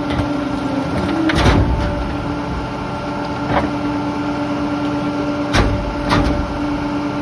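Rear-loader garbage truck running with a steady mechanical hum, with several sharp knocks and bangs of debris, the loudest about a second and a half in.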